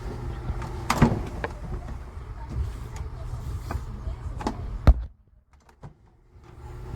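Compact portable clothes dryer running: a steady low hum from its motor and drum, with a few sharp clicks and knocks. The hum cuts out about five seconds in and comes back near the end.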